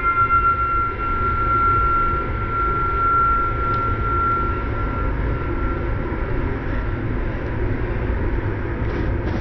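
Train running with a steady low rumble, with a single high steady tone that fades out about five seconds in.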